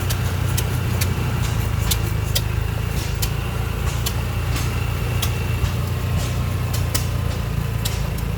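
Engines running steadily with a low rumble, with sharp clicks at irregular intervals.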